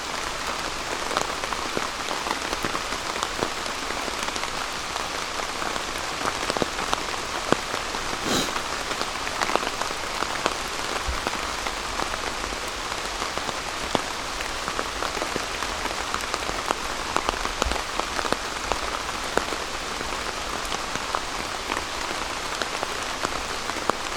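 Steady rain pattering on a tarp overhead, a dense even patter of many separate drops. One heavier drop hits about eight seconds in.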